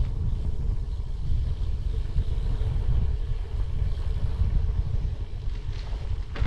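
Steady low rumble of wind buffeting the microphone and road noise while riding a bicycle.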